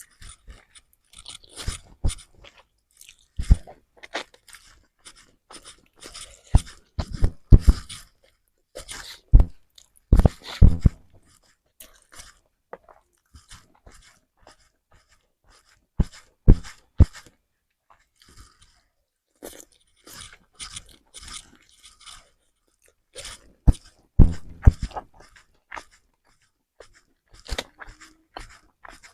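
Close-up chewing and wet mouth sounds of a person eating mie goreng fried noodles with rice, in irregular bursts with short pauses and a longer lull about halfway through.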